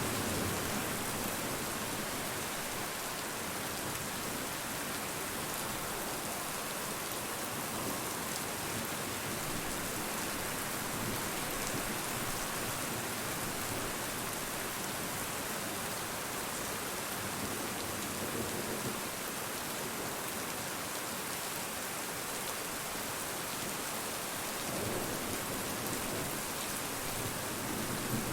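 Steady rain falling, an even hiss of drops on surfaces, with a few faint low swells about two-thirds of the way through and near the end.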